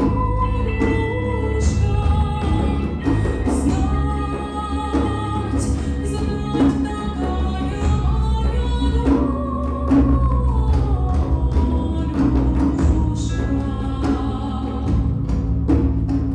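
A live folk-style song: a female voice sings a slow, sad melody over instrumental accompaniment and hand percussion beating out a complex eastern rhythm.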